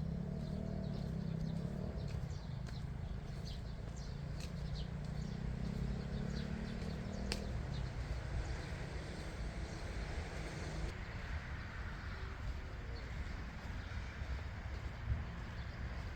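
Outdoor park ambience: a low steady rumble, with scattered short bird chirps, most of them in the first half.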